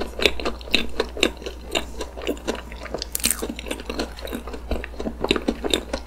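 Close-miked chewing of a mouthful of whipped-cream cake, with many short moist clicks and crisp crunches a few times a second from a cookie-like crunchy layer inside the cake.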